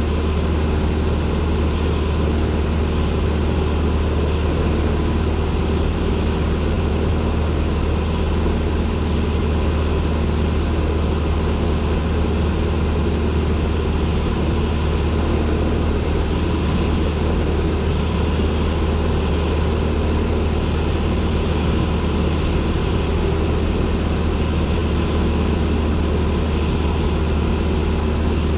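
Cessna 172N's four-cylinder Lycoming O-320 engine and two-blade propeller running at a steady cruise setting, heard as a constant deep drone inside the cabin.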